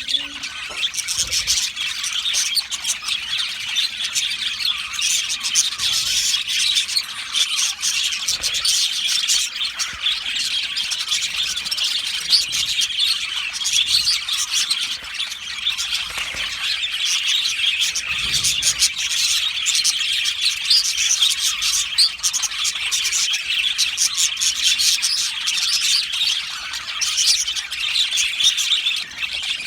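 A colony of budgerigars chattering together, a dense, continuous mass of high chirps, warbles and squeaks from many birds at once.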